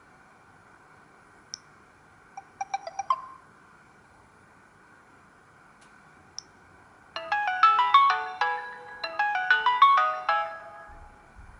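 Samsung GT-C3222W stock ringtone played through the phone's small loudspeaker: a brief run of electronic notes about two and a half seconds in, then a quick, bright melody from about seven seconds in, in two phrases, fading out near the end. A faint steady hiss lies underneath, with two short ticks in the quiet stretches.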